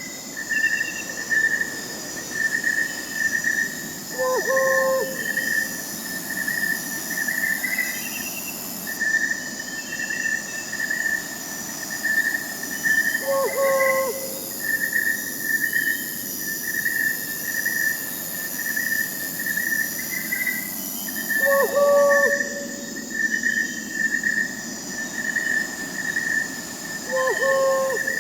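Crickets chirping in a steady pulsing trill, with an owl hooting four times, several seconds apart.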